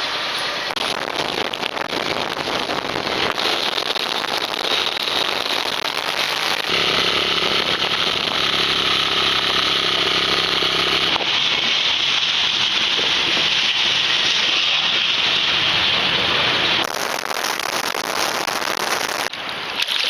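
Heavy wind noise rushing over an action camera's microphone, a steady loud hiss that changes abruptly several times as the clips change. For a few seconds in the middle a steady low hum runs underneath.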